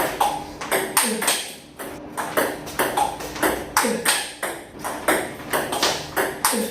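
Table tennis balls being struck by rackets and bouncing on the table in a fast multi-ball drill: a rapid, uneven run of sharp plastic clicks, several a second.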